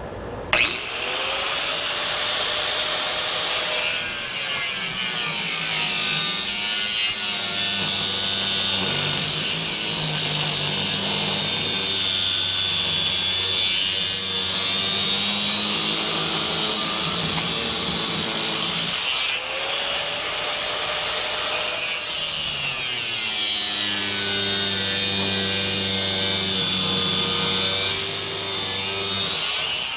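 A power tool cutting through the ceiling fan motor's metal housing. It spins up about half a second in, runs steadily with a high-pitched edge, stops briefly about 19 seconds in, then starts and cuts again.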